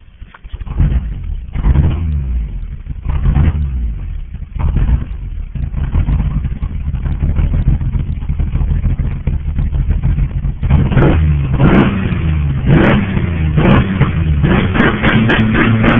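Nissan VQ30DE 3.0-litre V6 running and being revved in short blips, then from about eleven seconds in a louder run of repeated revs rising and falling.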